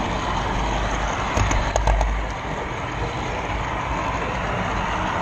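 Steady rolling rumble of a model-railroad camera car's wheels running along the track, with a few sharp clicks about one and a half to two seconds in, as over rail joints.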